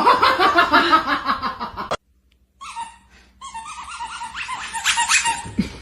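A person laughing hard in quick repeated bursts, cut off abruptly about two seconds in. After a brief silence, a second run of quick high-pitched pulsed sound builds until the end.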